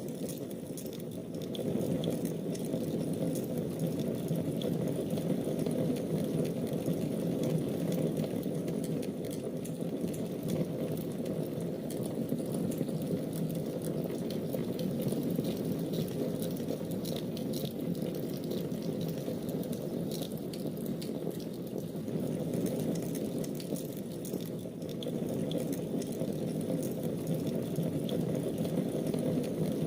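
Wood fire burning in a fireplace: a steady low rushing noise with scattered small crackles and pops.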